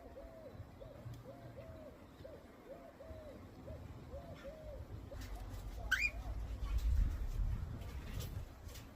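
A bird giving a series of soft, low hooting coos, about two a second, which stop about six and a half seconds in; a single quick rising chirp from another bird comes about six seconds in. A low rumble swells underneath and is loudest around seven seconds in.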